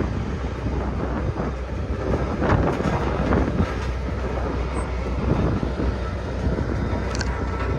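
Road roller engine running steadily with a constant low rumble, mixed with wind noise on the microphone. A brief high squeak sounds about seven seconds in.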